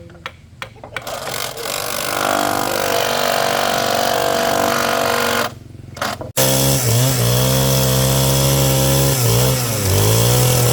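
A power tool's motor running loudly, with a few knocks at first. After a brief stop a little past halfway it starts again with a strong hum whose speed dips and recovers several times, as it does when the tool is loaded against the work.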